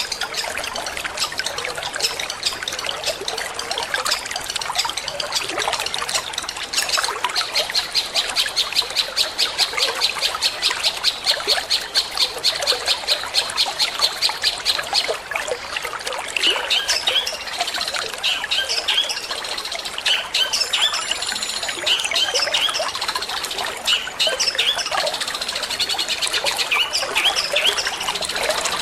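Long-tailed shrike (cendet) singing in the rapid 'petir' style over steadily trickling water. A fast run of repeated high notes fills the middle, followed by varied chirps and harsher calls.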